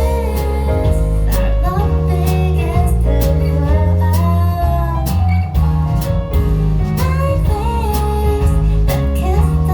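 Live band music: a woman singing over guitar, bass and drums.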